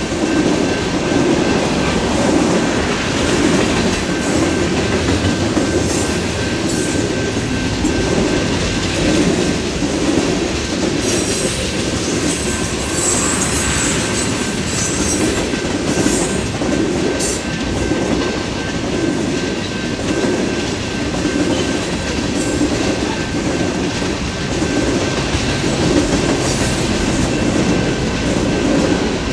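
Freight cars rolling past at speed: a steady rumble of steel wheels on rail with a regular clickety-clack over the joints and a faint steady whine. Brief high-pitched wheel squeals come and go in the first half.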